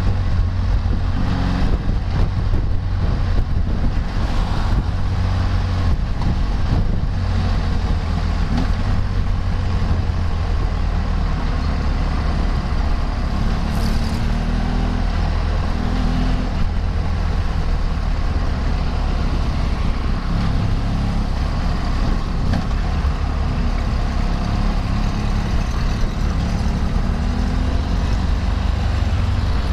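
Motor vehicle being ridden at road speed: its engine runs steadily, rising in pitch a few times as it speeds up, with wind rushing and buffeting over the microphone.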